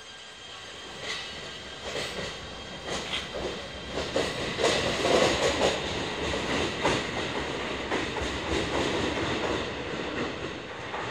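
JR Hokkaido 721 series electric train pulling out and running away down the line, its wheels clattering over rail joints and points. The noise builds over the first few seconds, is loudest about five seconds in, then eases slightly.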